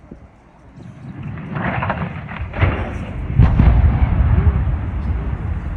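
The Trenton Channel Power Station smokestack demolition heard from a distance as a loud, rolling rumble. It builds from about a second in, with several sharper cracks and its loudest point near the middle, and trails off slowly.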